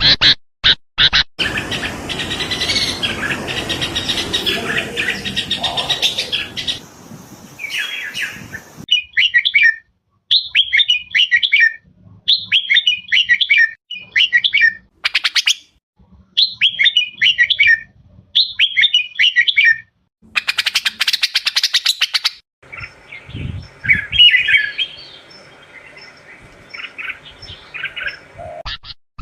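Red-whiskered bulbul singing: short, bright chirping phrases repeated about once a second. Before and after the run of phrases come stretches of denser, rougher noise.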